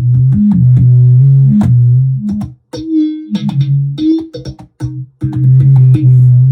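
Laptop cajon played through a Digitech BP355 multi-effects pedal: each sharp slap sets off a loud, low, sustained synth-like tone, and the tones step between a few bass notes in an uneven rhythm.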